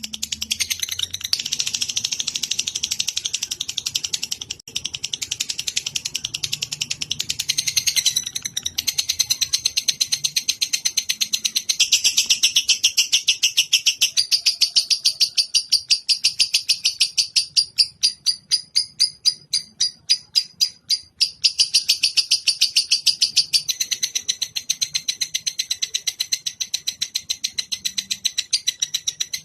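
Lovebird's long chattering trill (ngekek): rapid, evenly repeated high chirps several times a second, running on without a break. The rhythm shifts slightly a few times.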